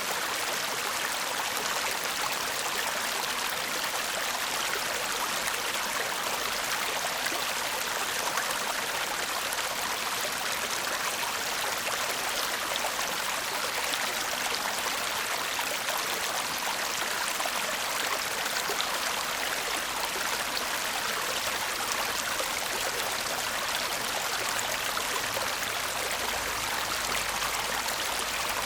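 Shallow stream babbling and trickling steadily, an even rush of water without breaks.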